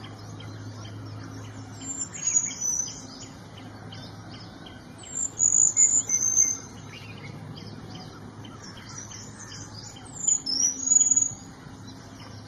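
Small niltava singing three short phrases of very high, thin whistled notes, a few seconds apart. A steady run of faint ticks and a low hum lie underneath.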